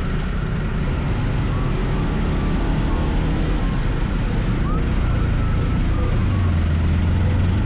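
Scooter engine running with road and wind noise while riding in traffic, the engine's low hum growing stronger about six seconds in.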